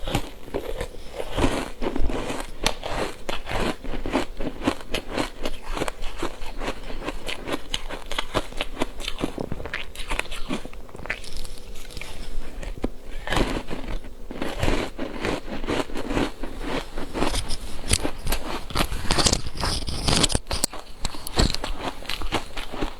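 A person biting and chewing ice: a long, close run of crunches and cracks.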